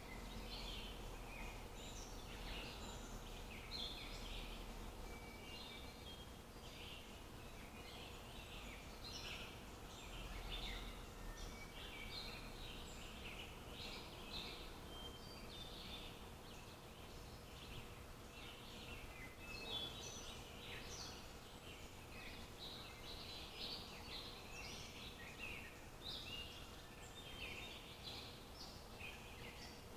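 Wild songbirds chirping and singing, many short overlapping calls in quick succession, faint against a low steady background hum.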